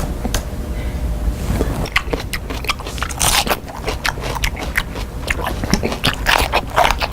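A person biting and chewing crunchy snack food loudly, with a rapid run of crisp crunches that thickens after about two seconds.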